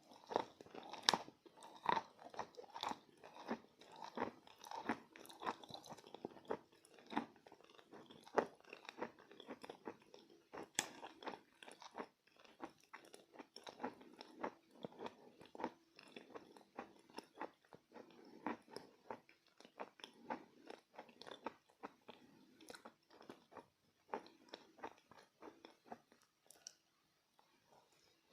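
Close-up chewing of pieces of chalk coated in Bashkir clay paste: repeated crunches, about one to two a second, thinning out near the end. The sticky clay dampens the crunch.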